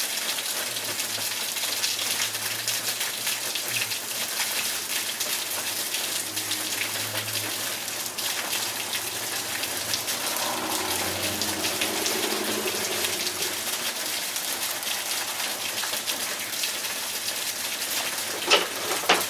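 Heavy rain pouring down in a steady, even hiss of a downpour with water splashing on hard surfaces.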